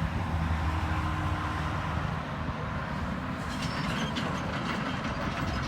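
Heavy demolition machine's engine running with a steady low hum, with faint scattered clicks and clatter from about three and a half seconds in.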